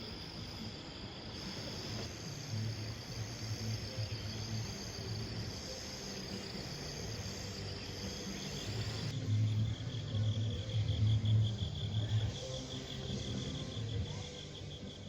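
Crickets trilling in a steady pulsed chorus of high chirps; about nine seconds in, the chorus changes to a slightly lower trill. Uneven low rumbling runs underneath and is loudest in the second half.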